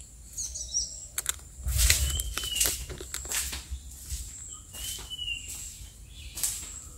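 Outdoor ambience: a small bird chirps briefly twice over a steady high insect drone, with scattered clicks and knocks of handling noise as the camera is moved.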